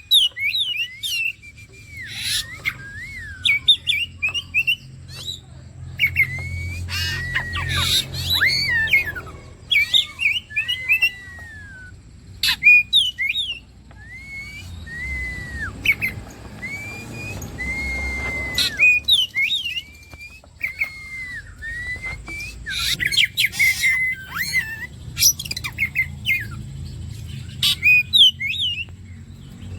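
Oriental magpie-robin (kacer) singing a fast, varied song. It is made of clear whistled notes that slide up and down, mixed with short scratchy chattering phrases and sung almost without pause.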